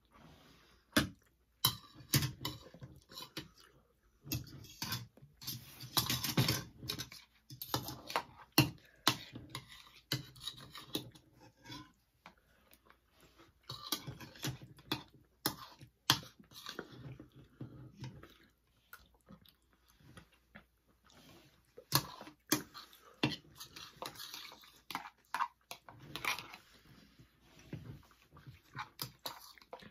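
Close-up eating sounds: people chewing and smacking on mouthfuls of spaghetti, with many sharp clicks and clinks from metal spoons against plastic bowls.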